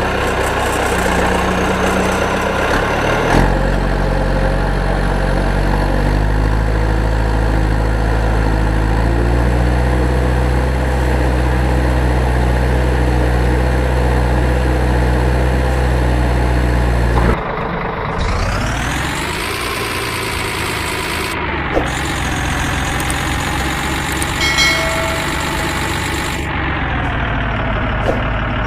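Vehicle engine idling steadily. After an abrupt cut about 17 seconds in, an engine revs up in pitch and runs on at the higher speed.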